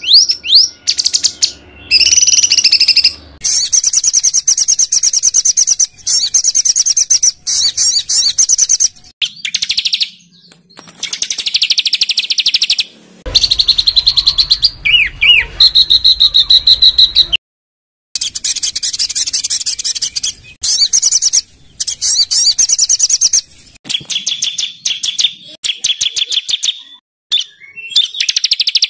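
A small songbird singing loud, harsh, very rapid high-pitched trills in phrases of about one to two seconds, with short gaps between them. Several phrases stop abruptly, as in an edited and looped masteran song-training recording of rough 'shot' phrases.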